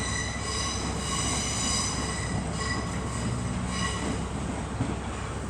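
LNER Class 801 Azuma train pulling out and running past. Its rumble carries a high-pitched squeal of several tones that keeps coming and going, and this fades near the end.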